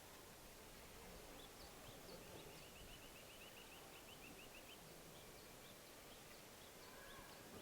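Faint songbirds chirping over a quiet background hiss: scattered short high chirps, and a quick trill of rapidly repeated notes lasting about two and a half seconds in the middle.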